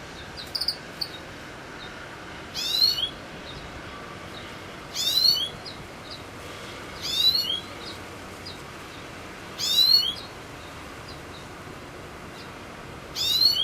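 Wild songbird singing a short phrase of rapid notes that fall in pitch, repeated five times at intervals of about two to three seconds. Faint single high call notes sound between the phrases.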